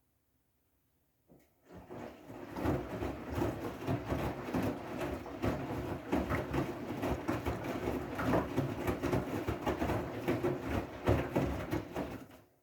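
Siemens i-Dos washing machine drum turning in its gentle wool/delicate programme, water and laundry sloshing and swishing unevenly inside. It starts suddenly about a second in and stops abruptly near the end, the short-turn-then-pause rhythm of a wool wash.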